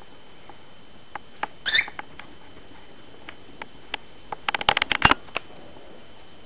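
Pet cockatiel moving about, making scattered sharp clicks and taps, with a short scratchy rustle about two seconds in and a quick run of clicks near the five-second mark.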